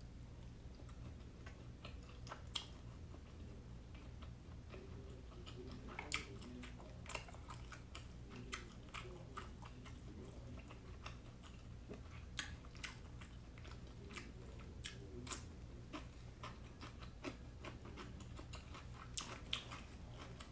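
Close-up eating sounds of a person chewing steamed siomai dumplings, with irregular wet mouth clicks and smacks over a low room hum.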